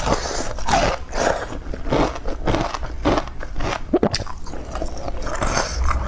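Close-up bites into crushed, shaved and hard ice: repeated crisp crunches, several a second, as teeth break the ice.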